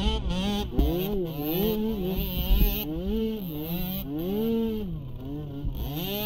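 Small youth ATV engine revving up and falling back over and over, several surges in a few seconds, as the throttle is worked. Knocks and rattles from the machine are mixed in.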